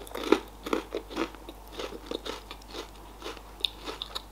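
Close-miked chewing of a Raffaello coconut-almond wafer candy with the mouth closed: a run of soft crunches a few times a second.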